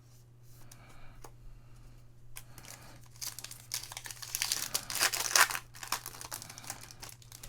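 Foil trading card pack wrapper being torn open and crinkled. It starts as a quiet rustle, then turns into a louder run of crackling in the middle, with scattered sharp clicks.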